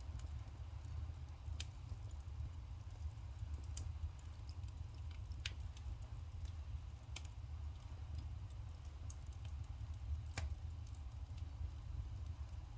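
Burning firewood crackling, with scattered sharp pops, the loudest about ten seconds in, over a steady low rumble.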